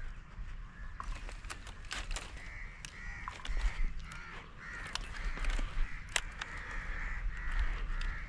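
A bird calling over and over with short, harsh calls, about two a second, starting about two seconds in, with a few sharp clicks and a low rumble of wind on the microphone underneath.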